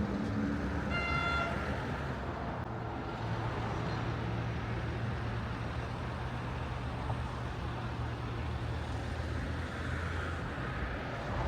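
Street traffic: a steady low rumble of passing vehicle engines, with a short, single horn toot about a second in.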